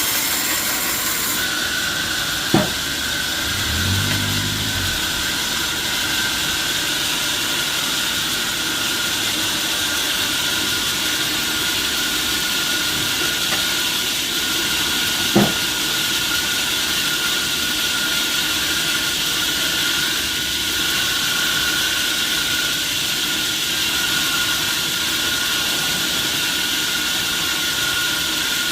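Sawmill machinery running with a steady hiss and a faint high whine, broken by two sharp knocks, a few seconds in and about halfway through.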